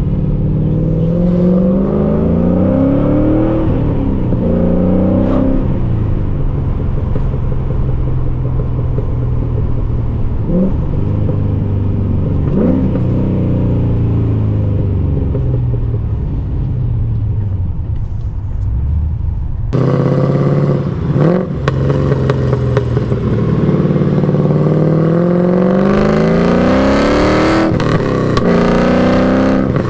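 LS1 V8 in an E36 BMW running under acceleration. Its pitch climbs through each gear and falls back at each shift of the T56 manual gearbox, several times over, with shifts made at about 5,000 rpm.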